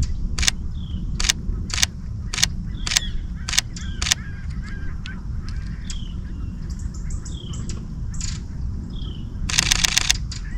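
Camera shutter firing single frames about every half second for the first few seconds, then a rapid burst of frames near the end. Short falling bird calls repeat in the background over a low rumble.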